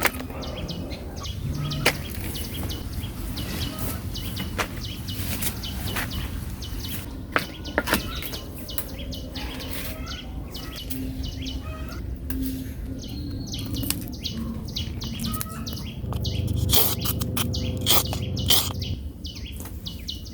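Small birds chirping in short, repeated calls, with scattered sharp clicks and snaps over a steady low rumble.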